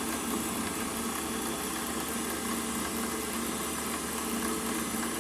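Milling machine running steadily, its cutter taking a light clean-up pass along the edge of the cut in the eye tube.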